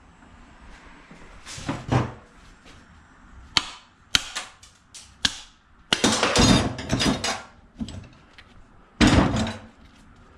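Hand tools knocking and clattering against a small item being taken apart for scrap: a few sharp knocks, with longer bursts of rattling clatter around six to seven seconds in and again just after nine seconds.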